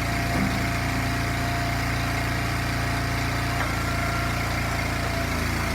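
Small gasoline engine of an Eastonmade log splitter running steadily at a constant speed.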